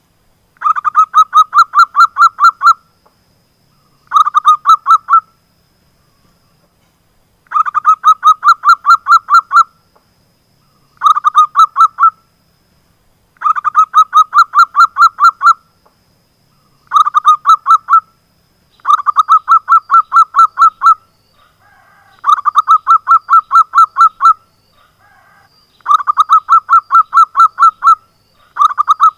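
Zebra dove (perkutut) calling in repeated bouts of rapid staccato notes, about five notes a second. Each bout lasts one to two seconds, with a short pause before the next.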